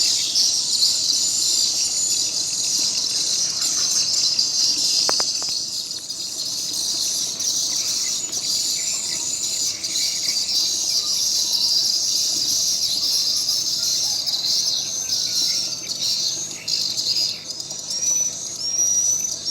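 Swiftlets chirping in a dense, continuous high twitter of short chirps, the sound used as a lure call for swiftlet farming. Near the end, single rising chirps stand out more clearly.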